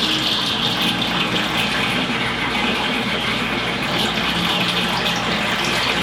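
Water running steadily in an unbroken rush, with no pauses or changes.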